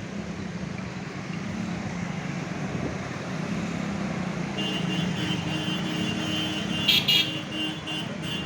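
Car engine running steadily under a haze of background noise, with two short horn toots about seven seconds in.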